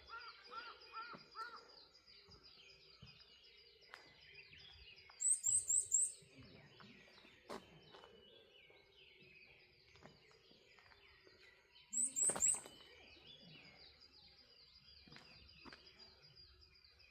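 Wild birds singing in the morning. One bird gives two loud bursts of four quick, very high notes about six seconds apart, over a steady chorus of repeated high chirps from others, with a short run of lower whistled notes at the start.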